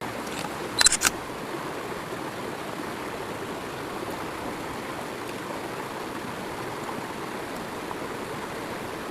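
Steady rush of flowing water, like a stream. A quick cluster of sharp clicks, louder than the water, comes about a second in.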